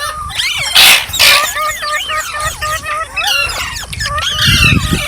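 Green parrot chirping in quick, rising-and-falling chirps, with two short, harsh, noisy calls about a second in. A low rumble comes near the end.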